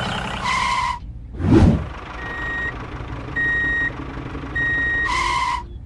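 Vehicle reversing alarm beeping three times, about a second apart, over a steady low engine hum. A louder, lower two-tone sound comes just before the beeps and again right after them, and a brief whoosh sounds about a second and a half in.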